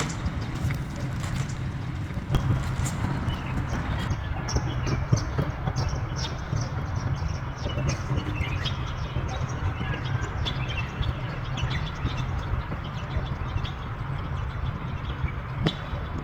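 Outdoor morning ambience: small birds chirping over a steady low rumble.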